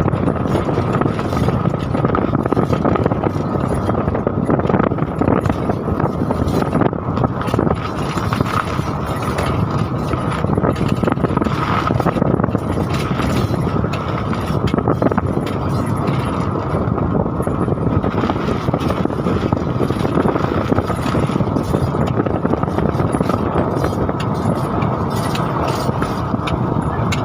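Heavy tropical rain falling steadily, a dense noise of many drops with no let-up.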